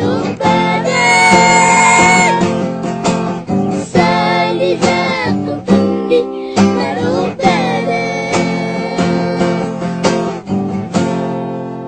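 A child singing a song to strummed acoustic guitar, holding long wavering notes between phrases. Near the end the voice stops and a final strummed chord rings on.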